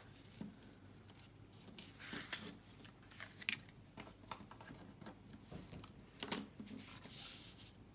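Cardstock and small metal craft tools handled on a work surface: intermittent paper rustling with light clicks and taps, the sharpest about six seconds in.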